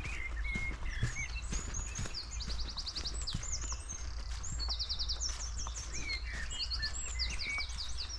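Small forest songbirds calling: many short high chirps and several quick, rapidly repeated trills, over a steady low rumble.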